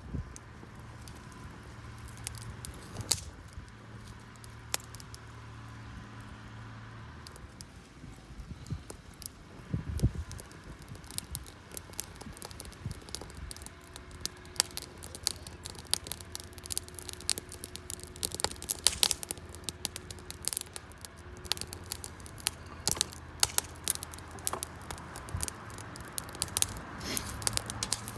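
Wood campfire crackling, with sharp snaps and pops of burning wood that come thicker from about a third of the way in.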